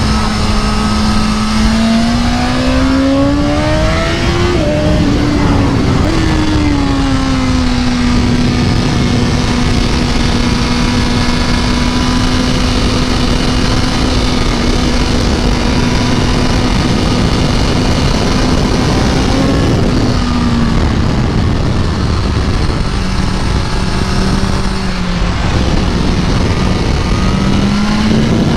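BMW S1000RR 2020's inline-four engine at full throttle on track. The note climbs and drops sharply twice about four to six seconds in, then holds one steady high pitch for about ten seconds. It falls off around twenty seconds and climbs again near the end, over a loud rushing noise.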